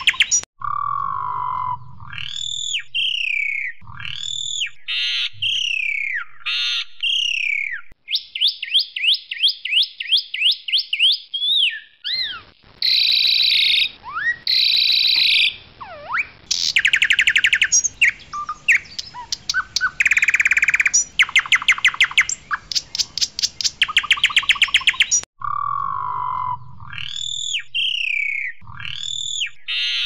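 Jalak suren putih, a white form of the Asian pied starling, singing a loud, varied song. It mixes clear slurred whistles, fast rattling trills and harsh buzzy phrases, and the opening phrases come round again near the end.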